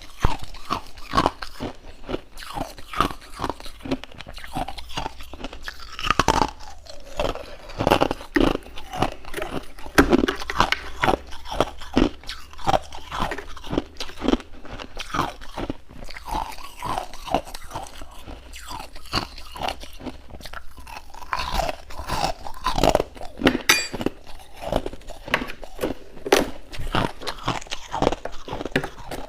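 Freezer frost being bitten and chewed: dense, irregular crunching of icy frost, one crunch after another.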